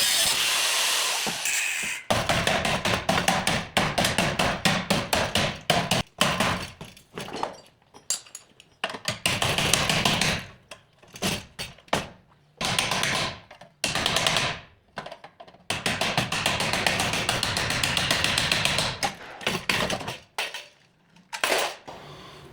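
Hammering on car-body sheet metal: runs of rapid strikes lasting a second or a few seconds each, with short pauses between.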